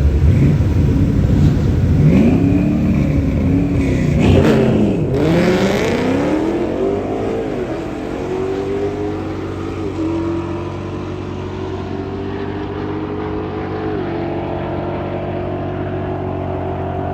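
A drag race car's engine revved up and down several times, then pulling away hard. Its pitch climbs steadily and drops back twice at gear shifts as the car fades off down the track.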